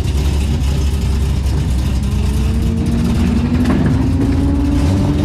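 Drift car's engine running at a low, steady idle as the car is driven off a trailer. Over a couple of seconds midway its note climbs slowly, then holds.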